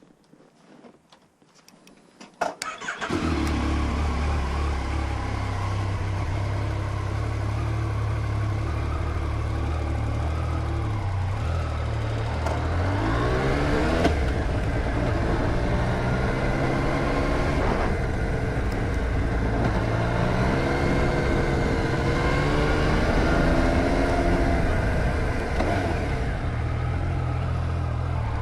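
2014 Yamaha MT-09 motorcycle's three-cylinder engine starting about two and a half seconds in, then idling steadily. From about twelve seconds in the revs rise and fall again and again as the bike gets under way.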